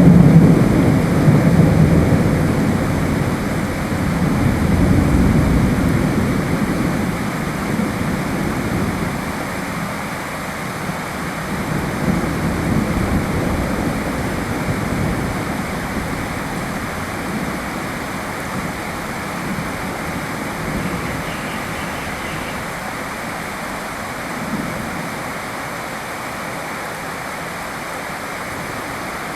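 Steady rain with a low roll of thunder that is loudest at the start and fades away over the first ten seconds or so.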